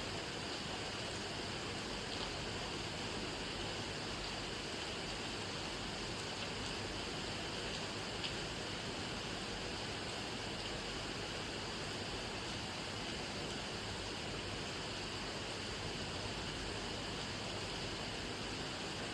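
Steady rain falling, an even hiss with a few faint, sharper drop taps.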